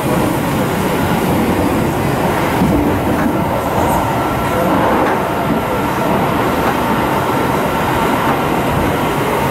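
Seibu 9000 series commuter train running, heard from inside the passenger car: a steady rumble of wheels on rail with a faint steady whine.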